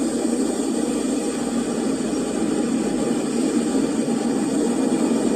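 Storm winds of about 120 km/h blowing hard, a steady loud rushing noise.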